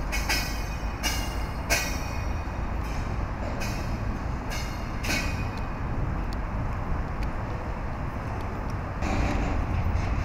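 Freight train of double-stacked container cars rumbling steadily, with a string of sharp metallic clanks during the first five seconds and a louder stretch near the end.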